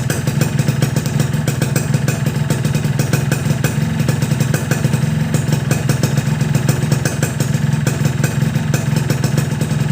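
Yamaha RX-King's two-stroke single-cylinder engine idling steadily through a freshly fitted Boban C33 aftermarket exhaust, a rapid, even run of pulses with no revving.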